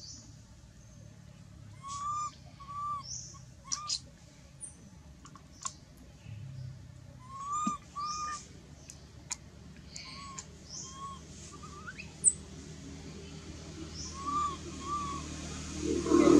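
Birds calling: pairs of short arched whistled notes recurring every few seconds, mixed with quick high chirps. A louder noise comes in right at the end.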